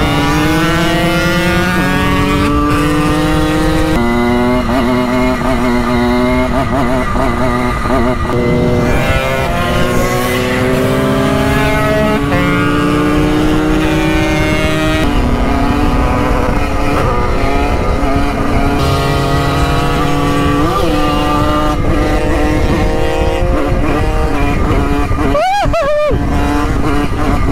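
Simson moped's two-stroke single-cylinder engine running under way, its pitch climbing as it revs and then dropping at each gear change, several times over, with wind rumbling on the microphone. Near the end there is a brief sharp swoop in pitch.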